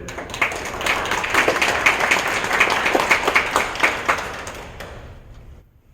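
Congregation applauding: many hands clapping together, holding for about four seconds and then dying away about five seconds in.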